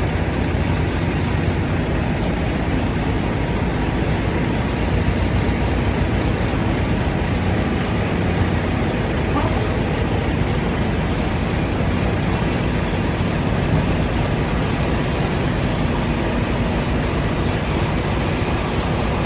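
Semi-truck diesel engine running steadily at low speed while the tractor-trailer backs up, a constant low rumble under an even noise.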